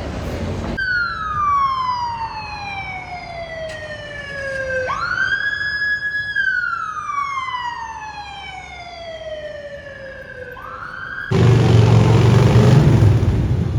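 Emergency vehicle siren wailing: its pitch falls slowly, jumps back up and holds briefly, falls slowly again and starts to rise once more. About eleven seconds in it cuts off abruptly into a loud, low rumble of street noise.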